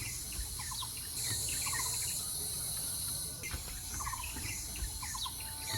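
A steady, high-pitched insect chorus that grows louder for a couple of seconds about a second in, with many short, repeated bird chirps and quick trills over it.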